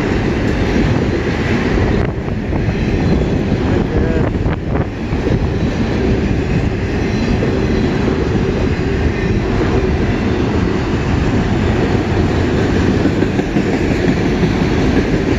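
Long freight train of autorack cars rolling past close by: a loud, steady rumble of steel wheels on the rails.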